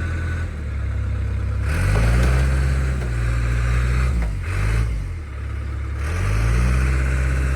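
Diesel engine of the D4 bulldozer revving up hard under load, pulling on the chain. It surges twice, easing off in between.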